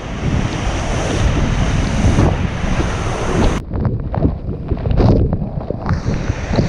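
Wind buffeting the microphone over the steady rush of a waterfall.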